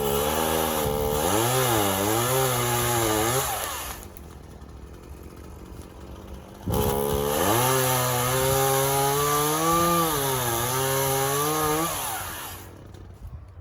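Two-stroke chainsaw at full throttle cutting through a tree trunk, its pitch sagging and wavering as the chain loads up in the wood. It drops back to idle about four seconds in, bites into the cut again a few seconds later, and returns to idle near the end. The cut is going slowly.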